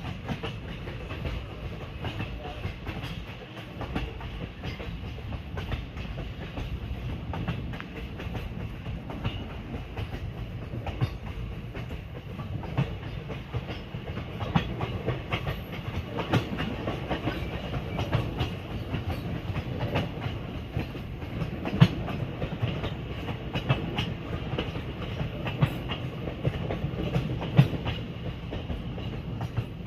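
Indian Railways passenger train running along the track: a steady rumble with frequent wheel clacks over the rail joints, a few of them louder in the second half.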